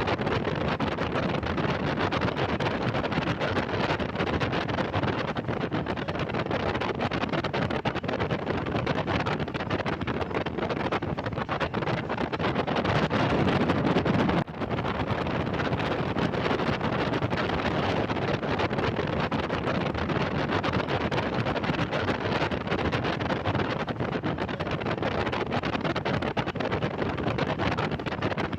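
Steady rushing noise of wind buffeting the microphone aboard a moving boat at sea, swelling briefly and dropping out for a moment about halfway through.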